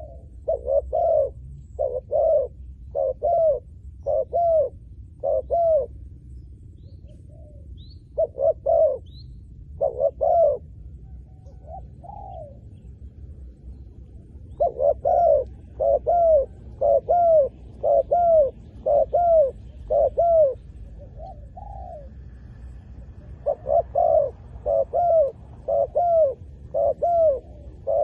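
Spotted dove cooing: runs of short, arched coo notes, several in a row, broken by pauses of a few seconds.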